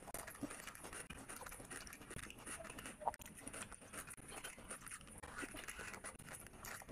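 Close-miked wet chewing and lip smacking of a person eating rice and curry by hand, a steady run of small moist clicks with one sharper click about three seconds in.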